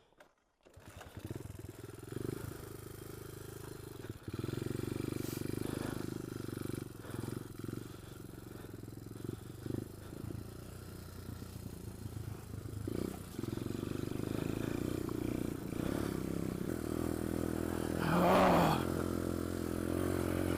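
Pit bike engine running steadily at low revs with clattering over rough ground. Near the end there is a brief louder burst whose pitch rises and falls.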